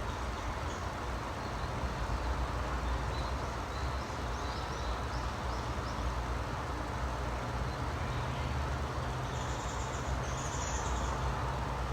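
Small birds chirping with short high notes and a brief buzzy trill near the end, over a steady low rumble and hiss.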